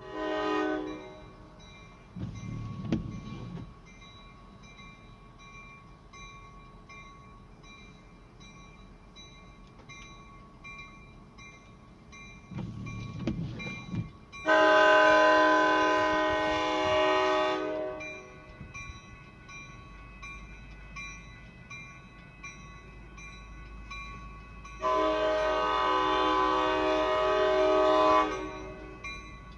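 Diesel locomotive's multi-chime air horn sounding at a grade crossing: a brief blast, then two long blasts of about three seconds each. A crossing bell rings steadily underneath.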